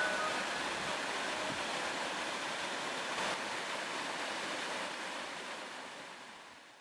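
Waterfall rushing steadily, fading out over the last couple of seconds.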